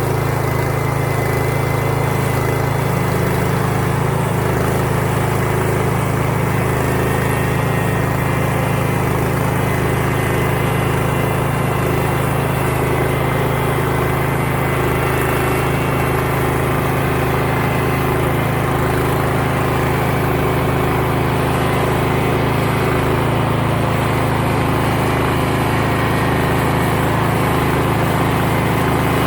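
Small engine running steadily at an even speed, with no changes in pitch or load.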